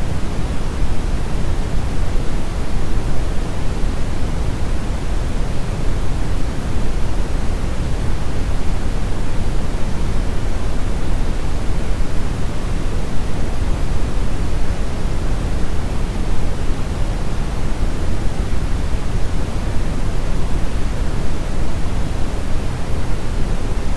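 Steady synthetic brown noise: a continuous deep rushing hiss, strongest in the bass, with no changes or events.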